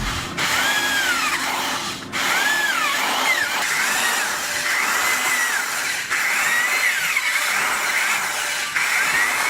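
Electric drill running, its whine rising and falling in pitch as the speed changes, with several brief breaks.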